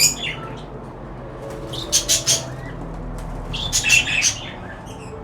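Aviary birds flapping their wings and chirping, in short quick bursts that come in two clusters, about two seconds in and again about four seconds in.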